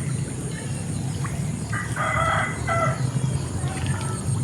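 A rooster crowing once, about two seconds in: a single crow lasting just over a second, over a steady low rumble.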